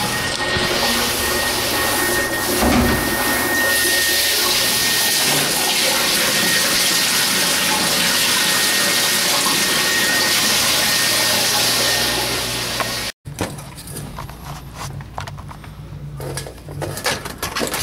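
Water pouring down a staircase in a steady rush. About thirteen seconds in it cuts off abruptly, leaving quieter scattered knocks and a low hum.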